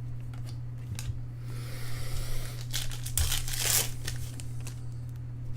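Foil trading-card pack wrapper being torn open and crinkled by hand, with a soft rustle followed by a louder, sharper crinkle about halfway through.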